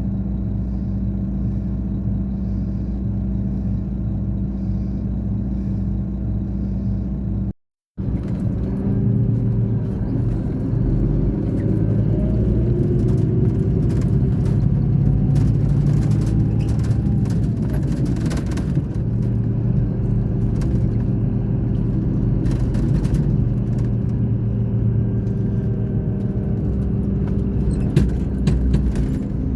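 Scania K420 coach's diesel engine running. It holds a steady note for the first seven seconds or so, then cuts out for a moment. After that it comes back with a shifting, gliding pitch and scattered clicks and rattles.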